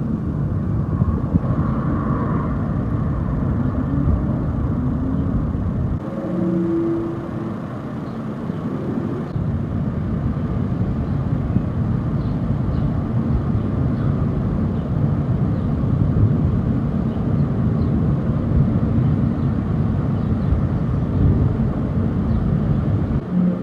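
Wind rumbling and buffeting on a phone microphone outdoors, with a brief lull about a third of the way in. A few faint short tones come through the wind, the strange trumpet-like sounds heard from the sky.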